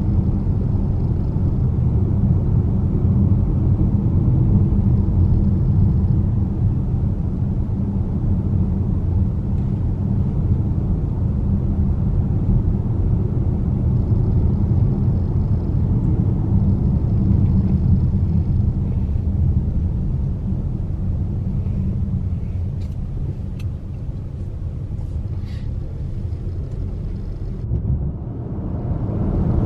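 A car driving along: a steady low rumble of road and engine noise, easing slightly near the end.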